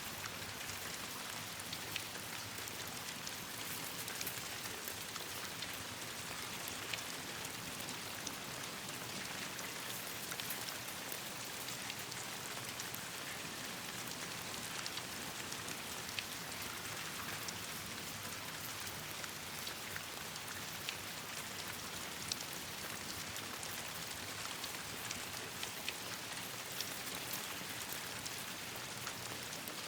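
Steady rain falling on leaves and branches, with a campfire crackling: scattered small sharp pops over the even hiss of the rain.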